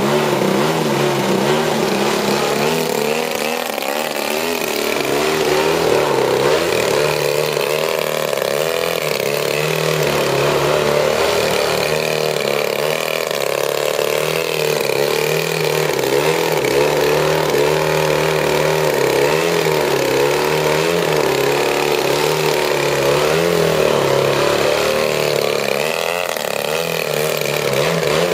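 Large radio-control aerobatic plane's 120cc two-stroke gasoline engine running continuously, its pitch and loudness rising and falling again and again with throttle changes.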